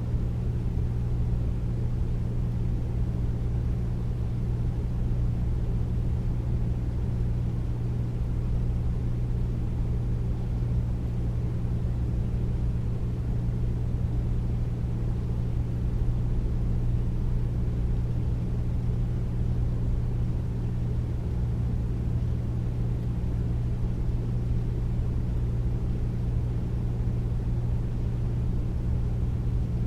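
Air conditioner running steadily: a deep, even hum with a low rush of air that does not change.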